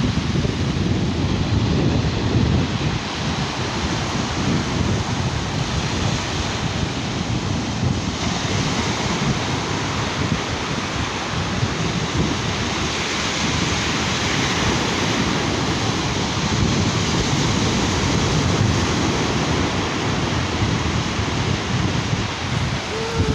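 Sea surf washing onto a beach in a steady rush, with wind buffeting the microphone in low gusts.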